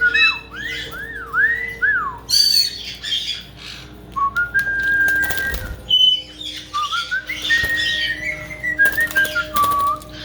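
Caique parrots whistling in quick rising-and-falling notes and held tones, mixed with bursts of splashing water from a caique bathing.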